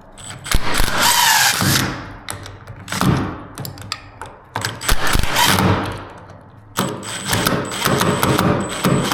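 Cordless drill-driver running in about four bursts, its motor pitch rising and falling, backing the screws out of a bifold door's floor bracket.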